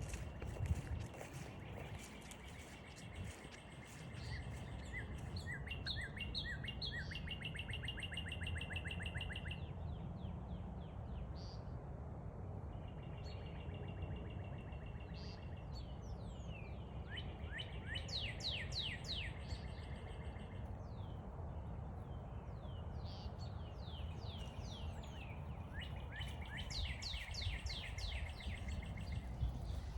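Songbirds singing, with three phrases of rapid repeated chirping notes about ten seconds apart, over a steady low rumble of wind and footsteps.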